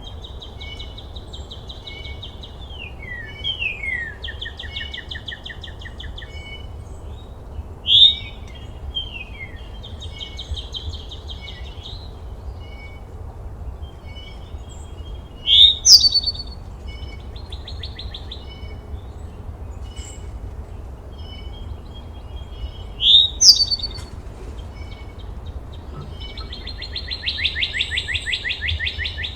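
Songbirds singing: repeated trills and short slurred whistles, with a loud, sharp rising call about 8 s in, again around 16 s and 23 s, and a long rapid trill near the end. A steady low rumble runs underneath.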